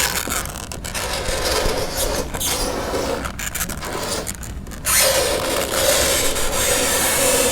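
Fingernails scraping across a chalkboard in a run of gritty strokes with short breaks, then a longer, louder scrape from about five seconds in with a steady squealing pitch running through it.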